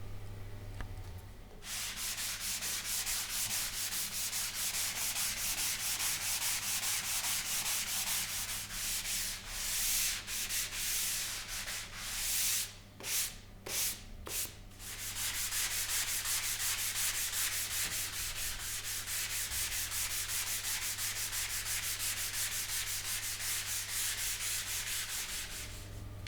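Hand sanding of a wooden speaker cabinet: rapid, even back-and-forth strokes, pausing briefly a little before halfway with a few single strokes before the steady rhythm resumes.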